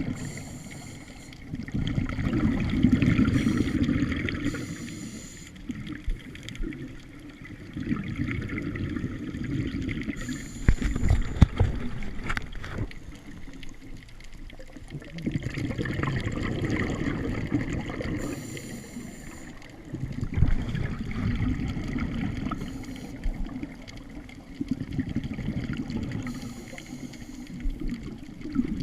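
Scuba diver breathing through a regulator underwater: bubbles gurgling out on each exhale, with a short hiss of the regulator on each breath, in a slow rhythm of about one breath every six seconds.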